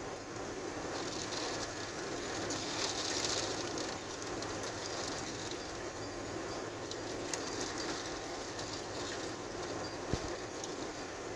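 Steady rush of a severe thunderstorm's wind and heavy rain, swelling in a gust about one to four seconds in. There is one sharp knock near the end.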